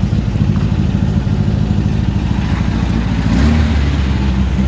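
Air-cooled flat-four engine of a Class 11 Volkswagen Beetle race car running at idle, heard from inside the cabin as a steady low pulsing hum. The low hum gets stronger a little after three seconds in.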